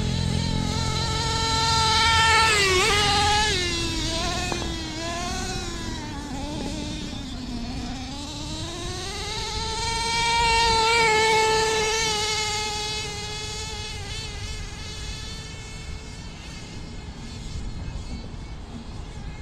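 Redcat Earthquake nitro RC monster truck's small two-stroke nitro engine buzzing at high revs as it is driven, its pitch rising and falling with the throttle. The pitch drops lowest about eight seconds in, climbs back up, then holds steadier and fainter near the end.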